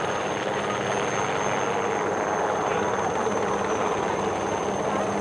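Navy helicopter running: a steady mix of engine and rotor noise, with a thin high whine held at one pitch.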